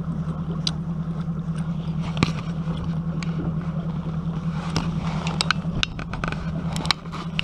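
A boat's motor running steadily with a low, even hum, with scattered light knocks and clicks over it.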